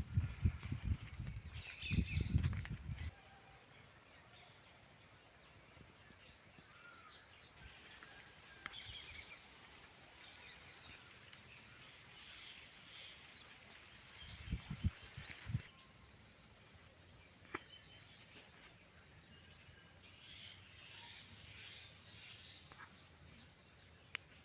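Faint bird chirps and calls over a steady quiet hiss, with loud low knocks and rustling for the first few seconds and a short cluster of thumps about fifteen seconds in.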